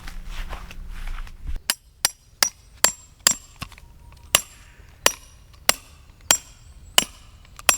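A hammer driving a tent peg into the ground: about a dozen sharp, ringing strikes at an uneven pace of roughly one every half second to a second. Before them comes a second and a half of rustling handling noise.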